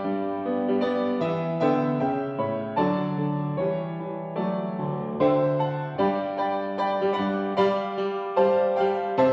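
Solo piano playing a slow, gentle instrumental piece, with notes struck about every half second to second.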